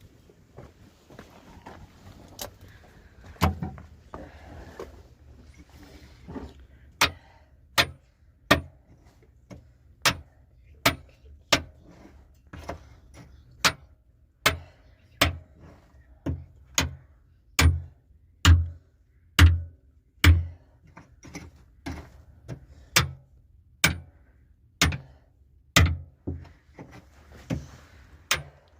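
A steady series of heavy blows, a little more than one a second, each a sharp crack over a dull thud. A few scattered strikes and some faint scraping come before the regular rhythm sets in about seven seconds in.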